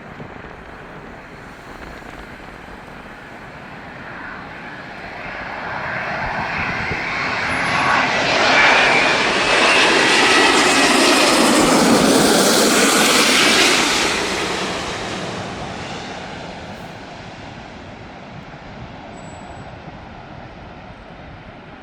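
Jet airliner on final approach passing low overhead: engine noise swells over several seconds, is loudest for about six seconds with a high whine, then fades away.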